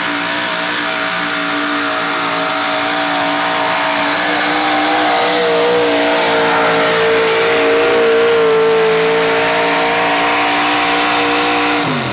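Truck engine held at high revs under load on a truck-pull run, a loud, steady high-pitched note that climbs slightly at first and holds, then drops sharply near the end.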